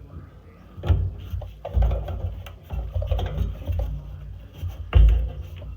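Irregular knocking, clinking and rubbing of hands and a screwdriver working on the metal parts of a furnace burner compartment. The sharpest knocks come about a second in, near two seconds and about five seconds in.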